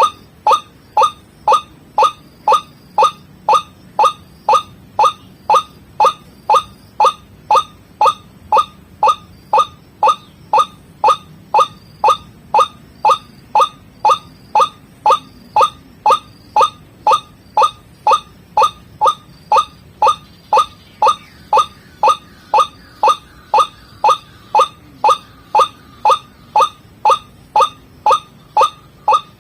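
White-breasted waterhen (ruak-ruak) lure call: one short, falling note repeated very evenly, about twice a second.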